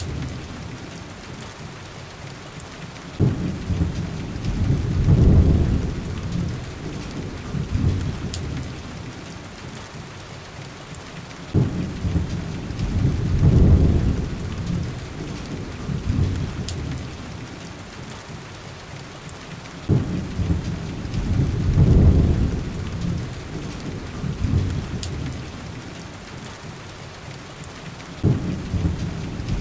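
Steady heavy rain with deep rolls of thunder. The thunder comes in four times, about every eight seconds, each roll starting suddenly, swelling and dying away. A few faint crackles from a wood fire are heard now and then.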